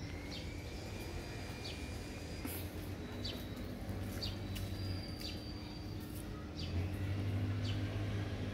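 Birds chirping in short, high, downward-sliding calls about once a second, over a steady low hum that swells briefly near the end.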